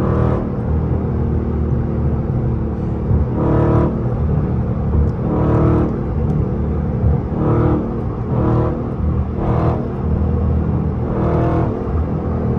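6.4-litre 392 HEMI V8 of a Dodge widebody muscle car running under hard driving, a steady engine drone broken by about seven short surges as the throttle is pushed.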